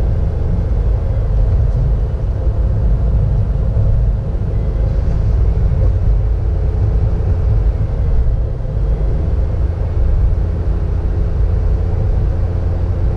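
Car driving, heard from inside the cabin: a steady low rumble of engine and road noise with a faint engine hum.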